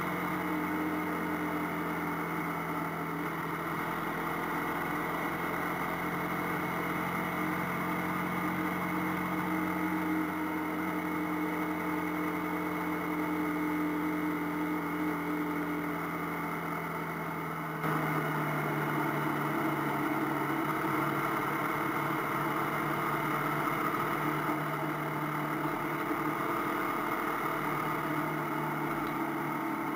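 Single-cylinder engine of an AKT TT 250 Adventour motorcycle running steadily while the bike is ridden. About two-thirds of the way in, the engine note suddenly gets louder and drops slightly in pitch.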